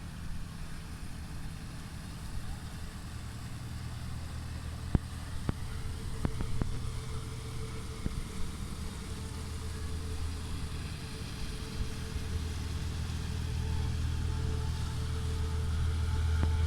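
A boat engine running steadily with a low hum, growing louder toward the end, with a few sharp knocks in the first half.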